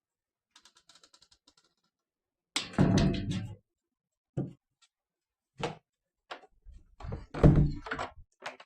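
A quick run of light clicks, then a series of thuds and knocks. The loudest come a little under halfway through, as a rattling thud, and again near the end.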